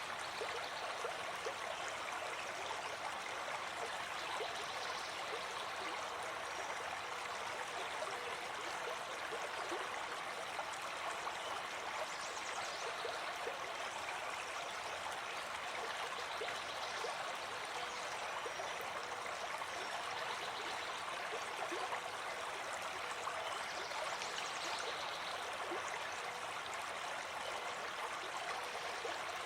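Running water flowing steadily, an even rushing with no breaks.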